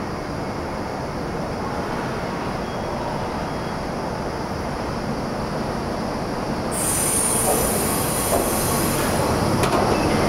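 JNR 583 series electric train pulling away from a station platform: a steady rumble at first, then about seven seconds in a high-pitched sound sets in as it gathers way, and the running noise grows louder.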